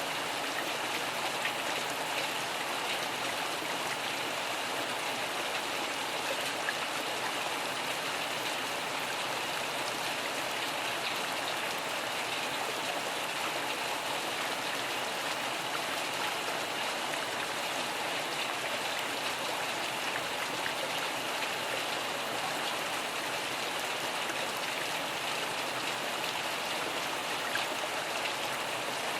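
Steady rain falling, an even hiss that does not rise or fall.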